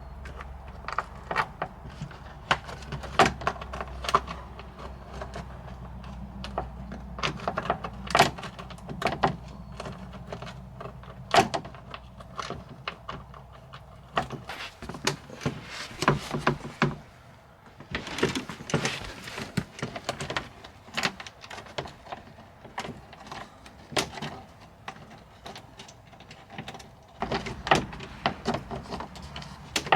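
Irregular knocks, clunks, rattles and scraping of a panel and tools being handled and worked into place under a car, over a low steady hum that stops about halfway and comes back near the end.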